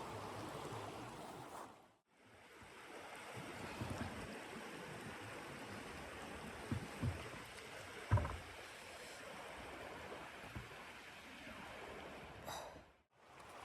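Steady rushing noise with a few soft low thumps, broken twice by brief dropouts to silence.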